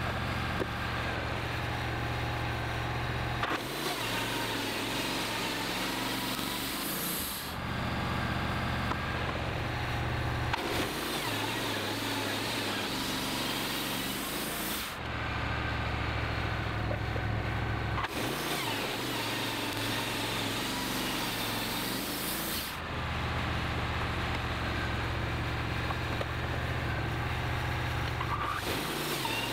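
Wood-Mizer LT15 portable band sawmill running on its Kohler gas engine, the band blade cutting through a pine log. The sound alternates every three to four seconds between a strong low engine hum and a brighter rasping of the cut.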